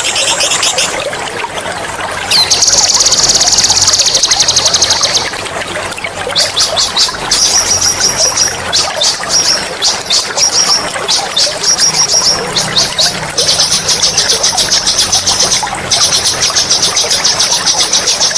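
A songbird singing long, rapid, high-pitched rolling trills of two to three seconds each, broken by strings of fast repeated notes, over a steady trickle of running water.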